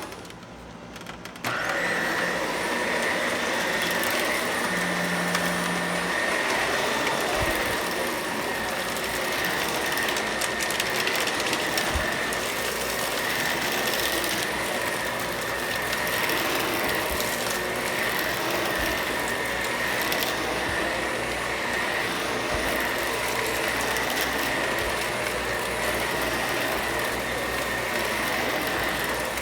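Shark vacuum cleaner running steadily with a high whine, its level jumping up sharply about a second and a half in.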